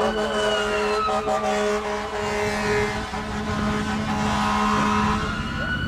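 A siren wailing in a slow rise and fall: falling over the first two seconds and rising again near the end. Under it is a steady low engine hum that stops about five seconds in.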